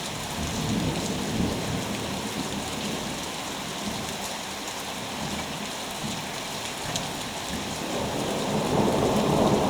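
Steady heavy rain falling, with thunder rumbling: one roll about half a second in, and a louder one building from about eight seconds in to the end.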